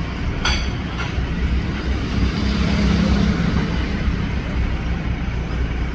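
A boat's engine running with a steady low rumble, swelling slightly about three seconds in, with a short click about half a second in.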